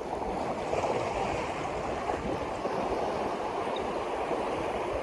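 Steady rushing of water, swelling at the start and then holding level.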